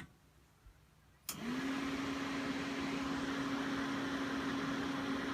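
RV furnace blower motor starting up: a click, then about a second in the blower spins up quickly into a steady whirring hum, running with the furnace cover on.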